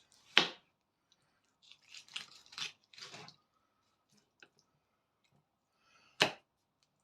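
A knife cutting the second leg quarter off a raw whole chicken: short wet squelches and crackles as the meat and joint are worked, with a sharp knock about half a second in and another near the end.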